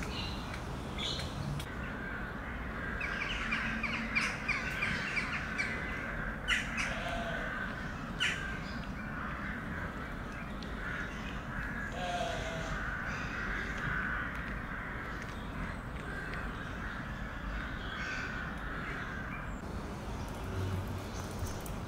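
Birds calling, with a quick run of short repeated notes a few seconds in over steady background chirping, and a couple of sharp clicks.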